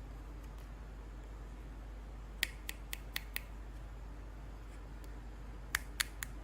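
Sharp, light clicks from handling action figures or their packaging: five in quick succession about two and a half seconds in, then three more near the end.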